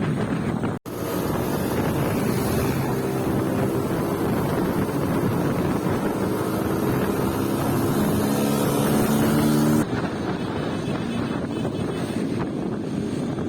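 Vehicle engine running under wind noise on the microphone, its pitch rising steadily over several seconds as it speeds up. The sound drops out briefly about a second in and changes abruptly near the end.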